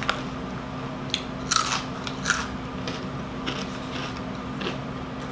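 Crunchy bites and chewing of Doritos Dinamita rolled tortilla chips close to the microphone, with a few sharp crunches in the first half and softer chewing after.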